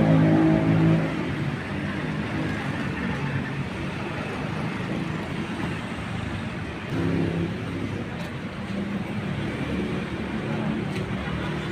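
Scania K410 double-decker bus's diesel engine idling steadily, its low tones swelling briefly at the start and again about seven seconds in.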